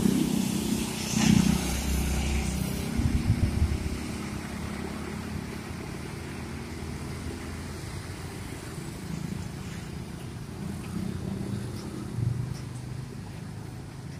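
Engines of passing road traffic, loudest with a couple of surges over the first four seconds, then settling to a steadier, quieter drone.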